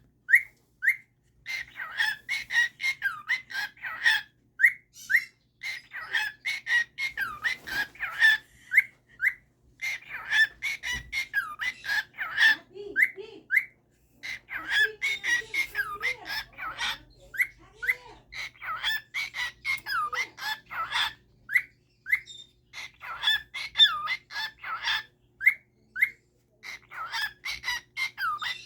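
A pet bird calling in rapid runs of short chirps and whistles, broken by brief pauses.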